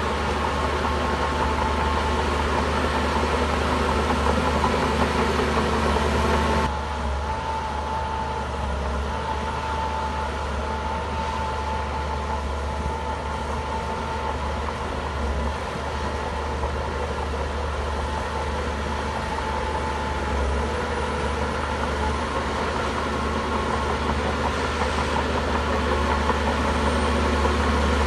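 Bulldozer's heavy diesel engine running steadily, with a steady high whine over the engine noise. About seven seconds in the sound changes abruptly and becomes a little quieter, then runs on at a steady level.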